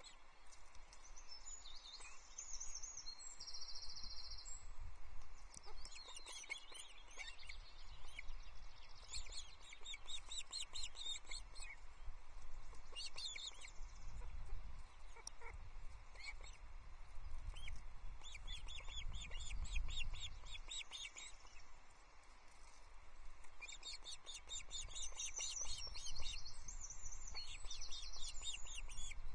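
Ospreys at the nest giving bouts of rapid, high chirping calls, over a steady low rumble.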